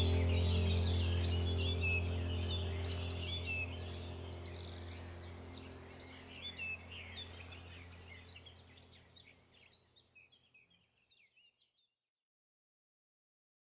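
Background music: a sustained low drone and held tones with birdsong chirping over it, fading out to silence about eight or nine seconds in.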